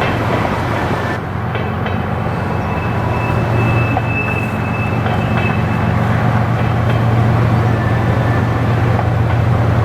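Freight train passing close by: the steady low drone of diesel locomotive engines over the dense rattle of wheels on the rails, growing a little louder after about three seconds.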